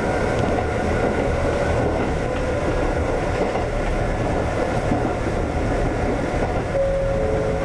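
Konan Railway 7000-series electric train (ex-Tokyu 7000 series) running along the line, a steady rumble of wheels on rails heard from inside the front car. A faint short tone joins near the end.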